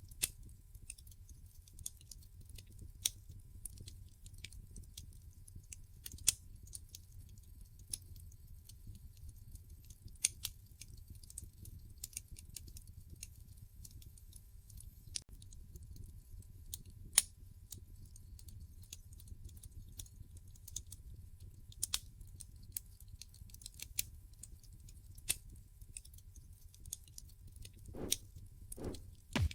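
Wood fire crackling in a fireplace: irregular sharp pops and snaps over a low, steady rumble, with a couple of softer, longer crackles near the end.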